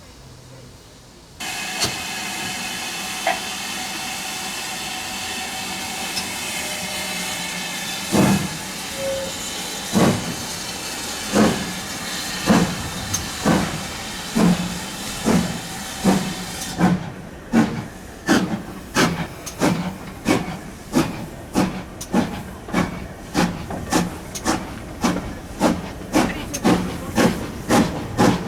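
GWR Manor class two-cylinder 4-6-0 steam locomotive 7820 Dinmore Manor starting away. A steady hiss of steam begins about a second and a half in. About eight seconds in, the chimney exhaust beats start, slow at first and quickening to about two a second. The hiss stops suddenly about halfway through, leaving the sharp exhaust beats.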